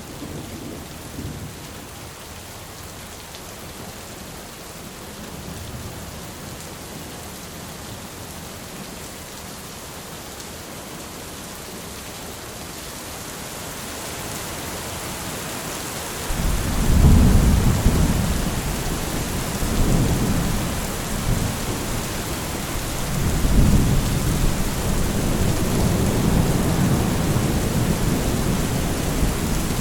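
Steady rain with a rolling thunderstorm. The rain hiss grows slowly, then about halfway through a deep rumble of thunder comes in and swells and fades several times, becoming the loudest part.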